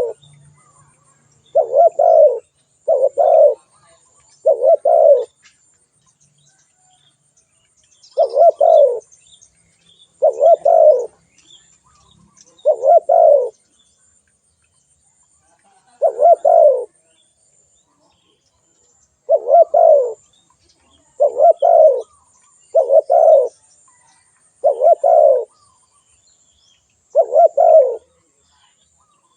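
Spotted dove cooing: about a dozen short, low coo phrases at uneven intervals, with gaps of one to three seconds between them.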